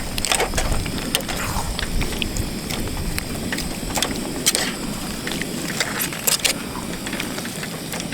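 Irregular small clicks, clinks and scrapes of camp cookware being handled while cooking rice.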